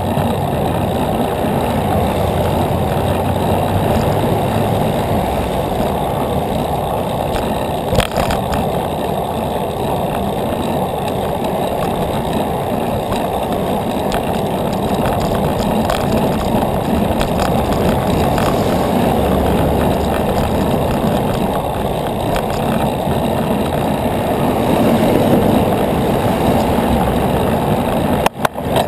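Steady loud road noise heard from a moving bicycle, mostly a low rumble of vehicle traffic and air rushing past. There is a short sharp click about eight seconds in and a brief dropout near the end.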